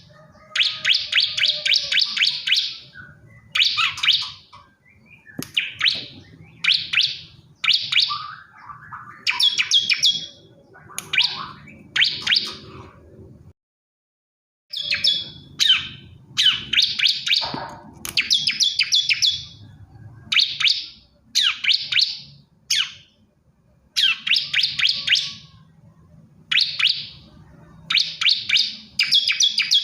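Male bar-winged prinia (ciblek kristal) singing: repeated short bursts of rapid, high chirping notes with brief gaps between them. The sound drops out completely for about a second mid-way.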